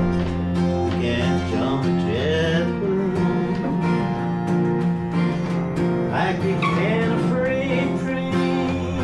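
Acoustic guitar music in a country-folk style: a steady accompaniment with a wavering melody line rising over it twice.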